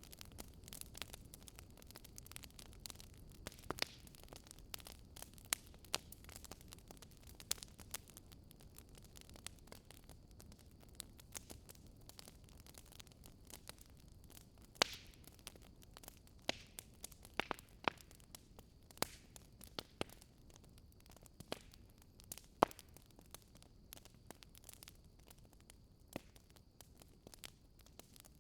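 Wood fire burning, crackling and popping with sharp snaps at irregular intervals over a low steady rush of the flames.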